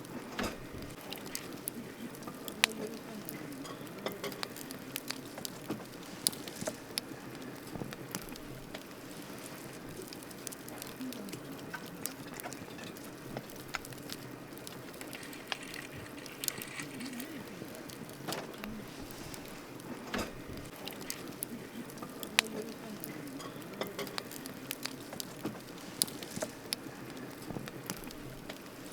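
Campfire burning, crackling with frequent sharp, irregular pops over a steady low hiss.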